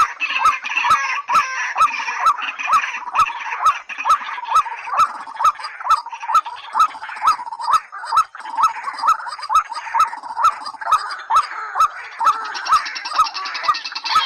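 Bird-call recording of white-breasted waterhen and common moorhen: a short hooked call repeated about three times a second, with a sharp click on each beat.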